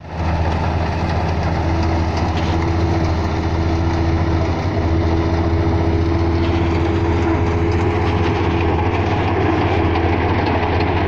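Kubota DC-35 combine harvester running steadily: a deep engine drone with a steady mid-pitched whine above it.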